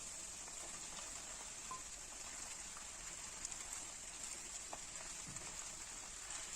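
Food frying in hot oil: a steady high sizzle with scattered small crackles.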